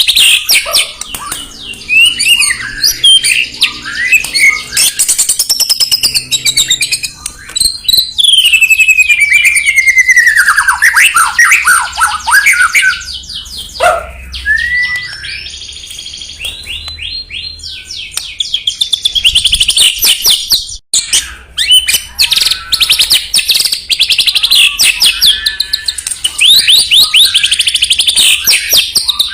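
White-rumped shama (murai batu) singing a loud, varied song of clear whistles, long falling slurred notes and fast rattling trills.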